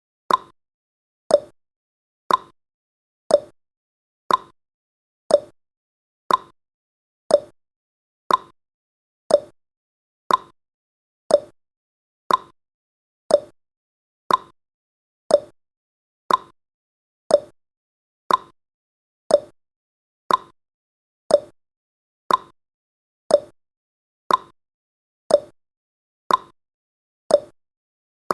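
Countdown timer's ticking sound effect: one short, sharp tick each second, steady and even.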